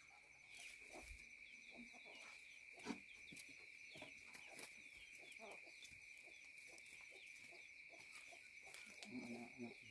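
Faint farmyard sounds: chickens clucking now and then, a little louder near the end, with small birds chirping over a steady high-pitched whine.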